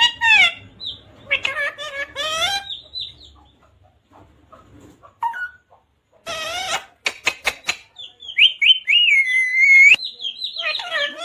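Pet parrot calling in a high, speech-like chatter, then a run of harsh squawks about halfway through, and a long held whistled call near the end.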